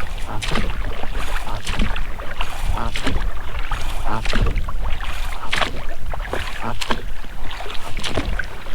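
Oars rowing an inflatable boat: the blades splash and drip in the water while the rubber rowlocks creak with each stroke, over a low rumble of wind on the microphone.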